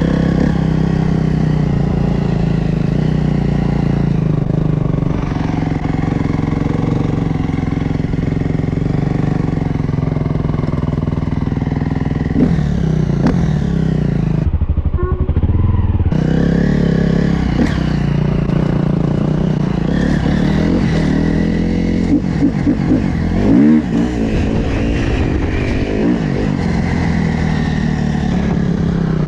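Dirt bike engines running steadily, with a few bursts of revving a little over three quarters of the way through.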